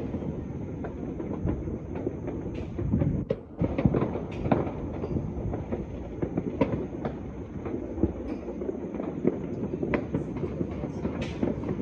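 Many distant fireworks and firecrackers going off across a city at once: a continuous rumble of overlapping bangs and crackle, with sharper single reports standing out every second or so.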